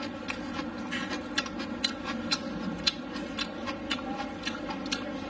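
A person chewing a mouthful of rice and meat close to the microphone: wet mouth clicks come in an even rhythm about twice a second, over a steady low hum.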